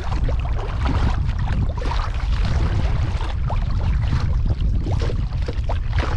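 Kayak paddling on a pond: paddle blades splashing and water dripping and trickling around the boat, over a heavy low rumble of wind on the microphone.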